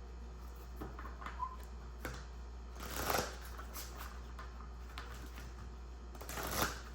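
A deck of cards being shuffled and handled by hand: quiet scattered clicks and two louder rustling shuffles, one about three seconds in and one near the end, over a steady low hum.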